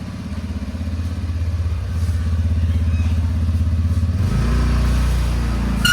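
Car engine running, growing louder over the first couple of seconds, then dropping to a deeper, heavier note about four seconds in.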